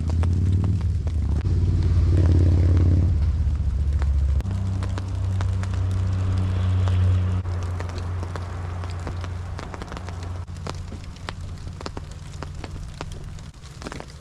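Raindrops tapping in quick, irregular ticks over a low rumble that is loudest in the first half and eases off about two thirds of the way through.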